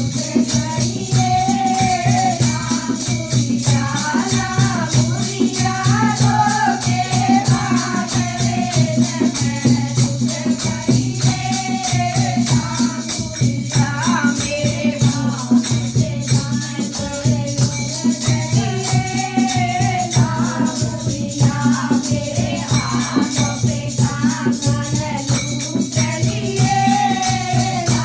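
Languriya bhajan kirtan music: a devotional folk song sung over fast, continuous rattling percussion with a driving beat.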